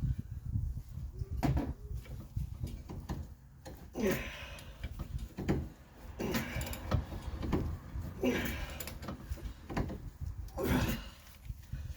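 Power drill boring into the stuck steel shaft of a sway bar end link in a lower control arm bushing. It runs in short bursts about every two seconds, each falling in pitch as the bit bites, with clicks and knocks in between.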